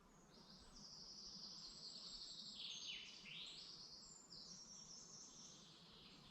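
Songbirds singing faintly in woodland: high, thin trilling phrases that overlap one another, with a quick downward-sweeping note about three seconds in.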